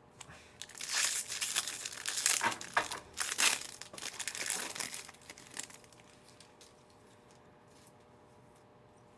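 Wrapper of a Panini Mosaic football card pack being torn open and crinkled, a few seconds of dense crackling that then dies down to a few faint ticks.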